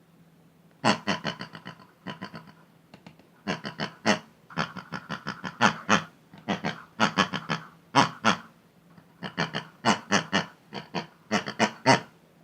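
Squeaky, pig-like grunting chatter in quick pulses, several a second, coming in short phrases with brief pauses between them.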